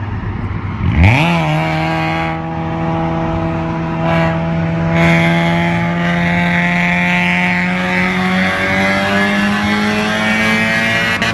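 Honda Civic 1.6-litre four-cylinder engine breathing through a Varex aftermarket exhaust, echoing in a tunnel. It is revved up sharply about a second in, then held at high revs with the pitch creeping slowly upward, with a raspy exhaust note.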